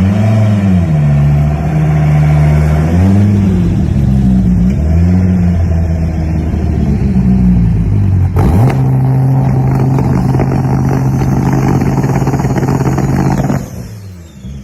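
Twin-turbo Dodge Viper V10 revving in repeated blips, then held at a steady rpm on the two-step launch limiter with rapid crackling pops for about five seconds, cutting off suddenly near the end.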